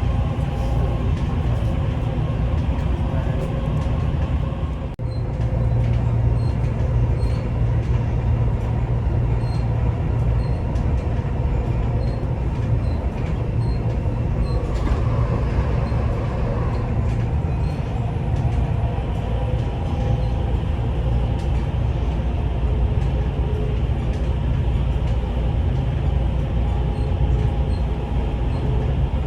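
Dubai Metro Red Line train running between stations: a steady deep rumble with faint steady whining tones above it, dipping briefly about five seconds in.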